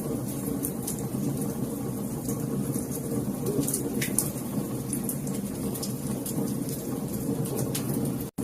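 Wood fire crackling in a fireplace: a steady low rumble of flames with frequent small, sharp pops and snaps. The sound drops out for an instant near the end.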